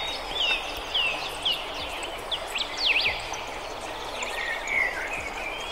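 Birds chirping: a string of short calls that sweep up or down in pitch, several a second at times, over a steady hiss.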